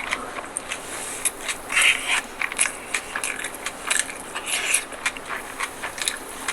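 Close-miked mukbang eating: crisp bites and chewing, a steady run of small crunches and wet clicks.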